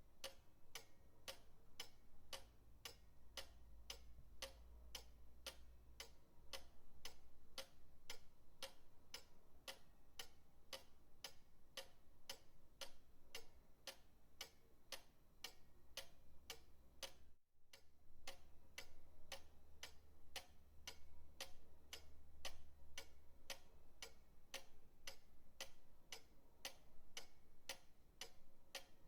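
Pendulum clock ticking, even sharp ticks at roughly two a second, with a split-second gap a little past the middle.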